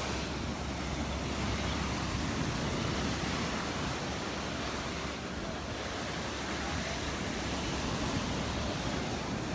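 Gulf of Mexico surf washing onto the beach, a steady rush that eases slightly about five seconds in, with a low wind rumble on the microphone.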